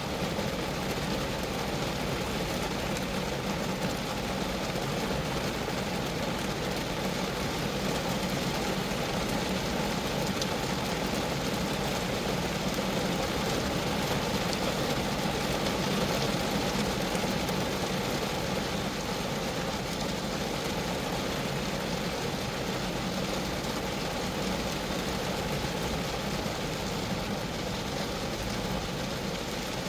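Steady rain falling on a Geo Metro's sheet-metal body, a dense, even patter of drops with no change in strength.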